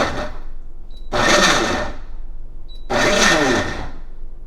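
Countertop blender pulsed three times, chopping cauliflower florets in water into fine grains: a short pulse, then two of about a second each. The motor winds down in pitch after each pulse, and a brief high beep comes just before each one.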